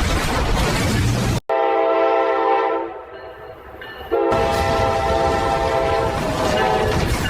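AI-generated train audio: rumbling train noise that cuts off abruptly about a second and a half in. A sustained multi-note train horn chord follows and fades. Just after four seconds in, a second horn blast starts suddenly over renewed rumble.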